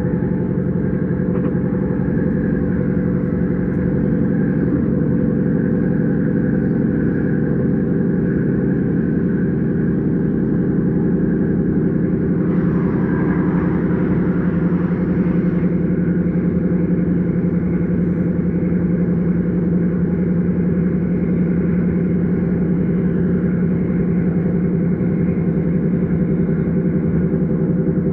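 Steady running noise of an S-Bahn electric train heard from on board: a constant drive hum under a low rumble. A brief rush of hissing noise comes in about halfway through and fades after a few seconds.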